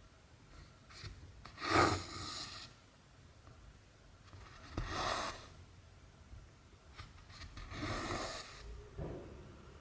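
Cotton embroidery thread pulled through cross-stitch fabric. Three swishes, each under a second, come about three seconds apart.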